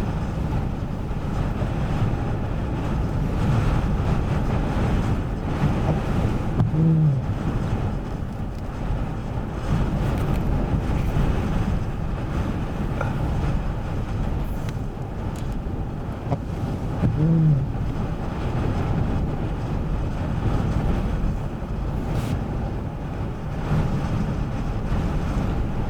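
Ocean surf with heavy wind rumbling on the microphone, a steady noise throughout. A few short pitched sounds stand out briefly about a quarter, two thirds and nine tenths of the way in.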